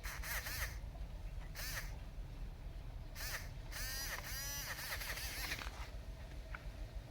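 A bird giving a series of harsh calls, with a longer run of calls about four seconds in.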